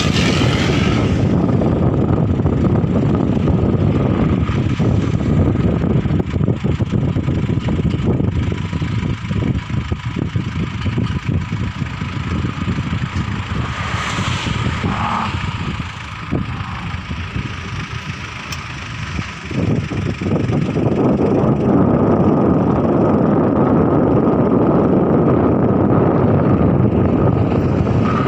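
A road vehicle travelling along: steady engine and road noise with wind on the microphone, easing off for a few seconds past the middle before picking up again.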